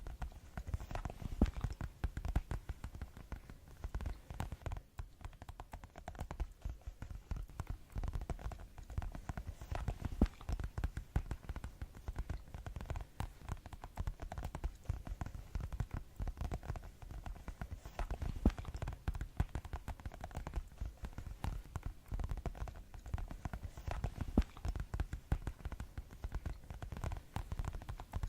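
Fast ASMR tapping: a dense, unbroken stream of quick taps with no pauses.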